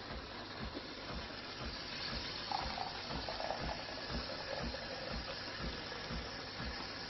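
De'Longhi Eletta Explore espresso machine running, a steady hiss of hot liquid with a low pulse about twice a second.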